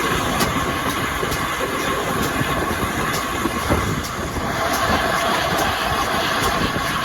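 Train running along the track: a steady rumble with repeated light clicks.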